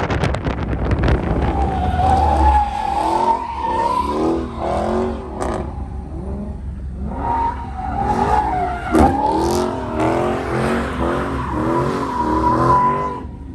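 Car tires squealing in two long screeches with a short break between them, over a running engine, with a couple of sharp knocks.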